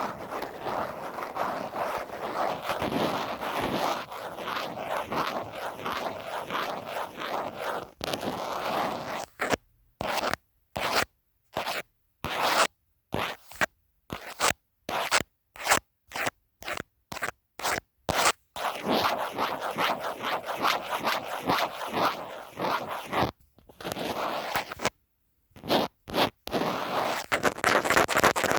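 Scratching on a phone case: a dense run of rapid scratches, then from about ten seconds in a string of separate short strokes with silent gaps between them, then steady scratching again to the end.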